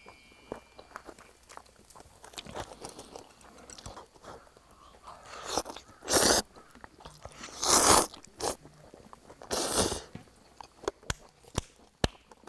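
A person eating close to the microphone: chewing a mouthful of spicy stir-fried noodles wrapped in grilled beef, with wet mouth clicks and three louder bursts of eating noise about six, eight and ten seconds in.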